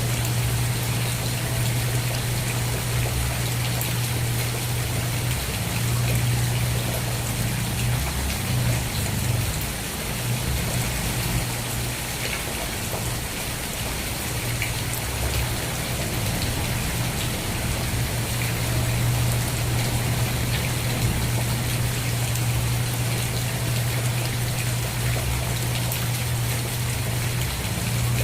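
Steady rain falling, with scattered drops ticking and a steady low rumble underneath.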